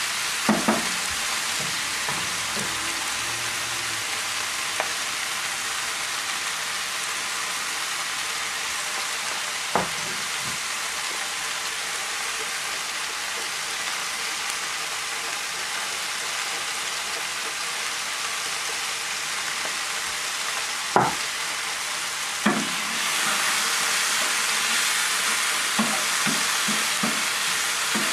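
Chicken, beans and diced vegetables sizzling steadily in a frying pan, with a wooden spatula knocking against the pan a few times as it stirs. The sizzle grows louder a little over three quarters of the way through.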